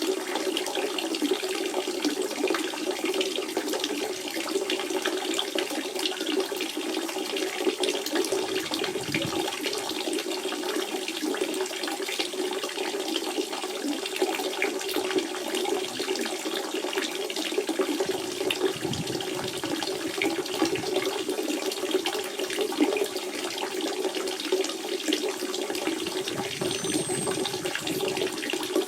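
Natural spring water running and splashing steadily, a continuous burbling flow with a strong low gurgle.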